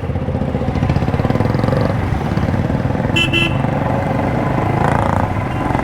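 Motorcycle engine running steadily under way, with a short horn toot in two quick parts about three seconds in.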